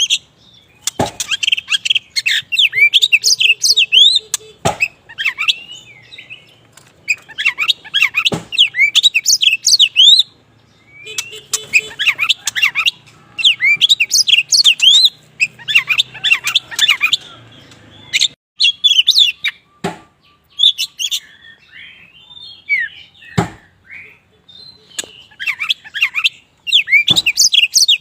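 Kacer wulung, the black form of the oriental magpie-robin, singing loudly in full song: repeated phrases of rapid, varied whistles and chirps, each a couple of seconds long with short pauses between. A few sharp clicks fall between the phrases.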